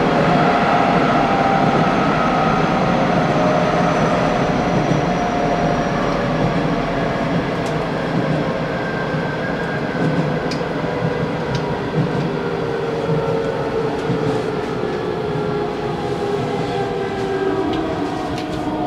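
Hanshin Railway local electric train running on the line, heard from inside the front car: steady wheel-on-rail running noise with a few light clicks, and a motor whine that slowly falls in pitch.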